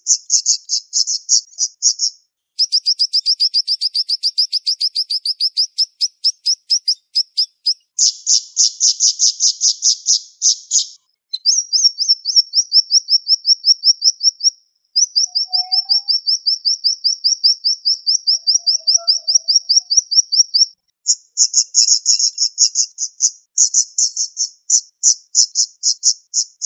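Siri-siri songbird singing fast, rapid-fire trains of sharp high-pitched notes, several quick notes a second, in long bursts broken by short pauses.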